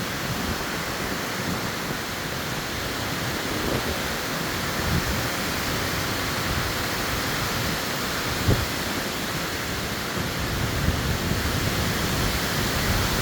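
Tropical-storm wind gusting through trees and blowing leaves: a steady rushing that swells and eases, with low rumbling buffeting of wind on the microphone. A short thump about eight and a half seconds in.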